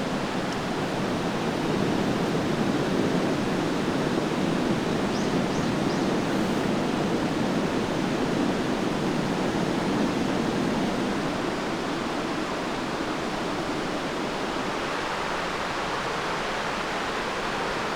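Steady rush of flowing water, its tone shifting higher about eleven seconds in.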